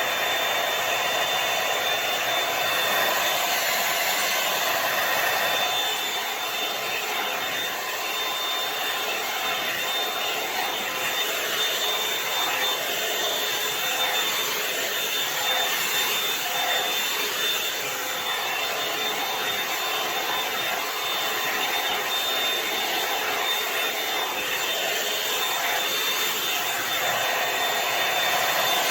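Revlon One-Step hot-air brush dryer running steadily: a constant blowing hiss with a thin high whine from its motor.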